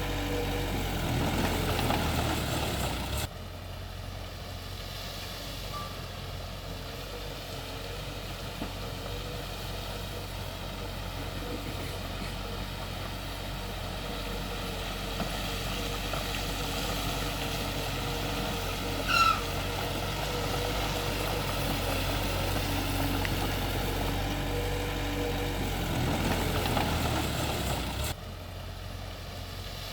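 Heavy diesel earthmoving machinery, a bulldozer and dump trucks, running steadily at work, with a short high squeak a little past two-thirds of the way through.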